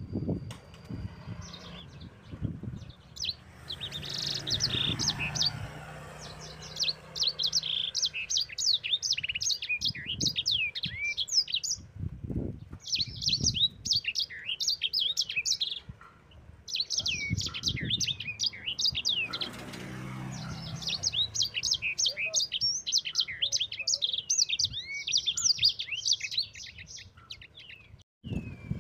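Songbird of the kind sold as 'sanger' singing a long rolling run of fast, high chirps and trills. The song comes in long bursts broken by short pauses, over a faint low rumble with a few thumps.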